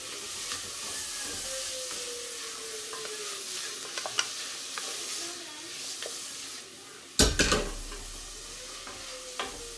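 Chopped onions sizzling in a frying pan while being stirred, with small clicks of the utensil against the pan. A loud knock comes about seven seconds in.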